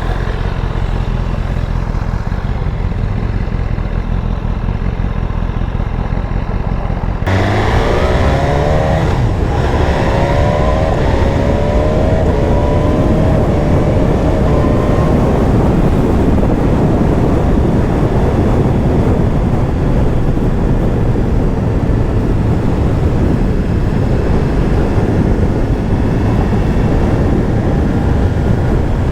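BMW S1000RR inline-four engine running low and muffled for about seven seconds, then the bike pulls away: the engine note rises in pitch as it accelerates, and wind rush comes in. It then settles into steady riding noise of engine and wind.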